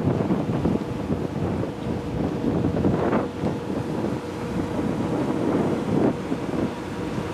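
Wind buffeting the microphone aboard the high-speed ferry Sunliner 2 under way, in gusts, over a steady hum from the vessel.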